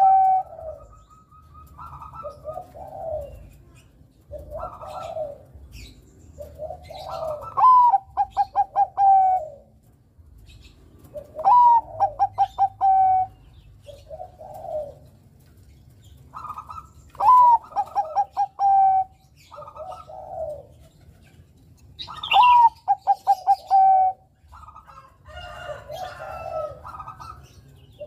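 Zebra dove (perkutut) of the Bangkok song type singing. Each phrase is a rising note followed by a quick stuttering run of short coos, repeated about every five seconds, with softer, lower coos in between.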